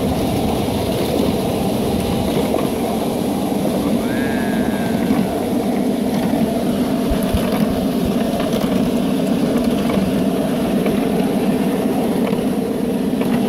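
Steady rumble and rattle of a steam train running along the track, heard from its open passenger car. A brief faint higher tone rises and falls about four seconds in.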